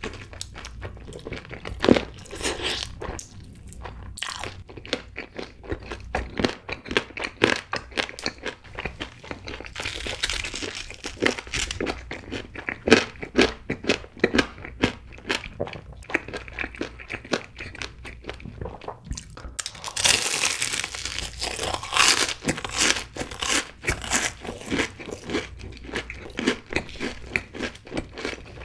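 Close-miked mouth sounds of eating: steady chewing of sauced fried chicken, then loud crisp crunching as a Cheetos-crusted corn dog is bitten and chewed in the later part.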